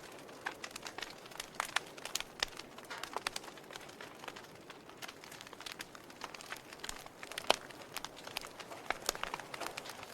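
Wood fire of burning logs in a fireplace crackling, with a soft steady hiss under many irregular sharp pops and snaps; one pop stands out about seven and a half seconds in.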